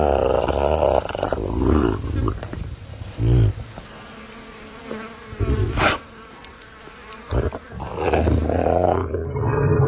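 A deep, pitched-down monster growl, made by growling softly into a mic inside a plastic cup and slowed and lowered in pitch, loud for the first second and again from about eight seconds in. Between them is a quieter stretch with a few short bursts and a sharp swell near the middle.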